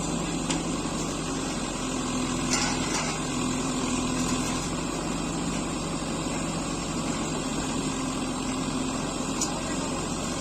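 Diesel engine of a backhoe loader running steadily, with a couple of faint knocks.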